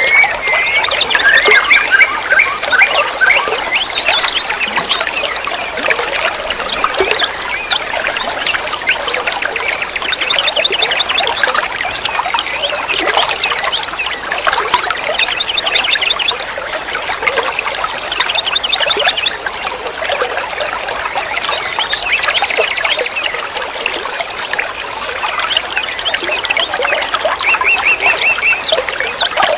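Caged songbird singing a continuous chattering song of rapid high chirps and whistles, broken by short, fast trills of evenly repeated notes.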